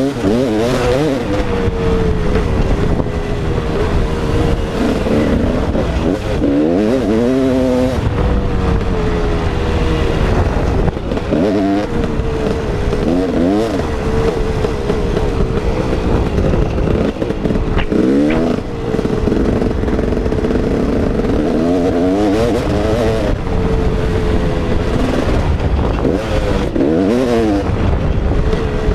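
KTM 380 EXC two-stroke dirt bike engine under riding load, revving up and dropping back over and over as the throttle is opened and chopped through gears, with a rush of noise underneath.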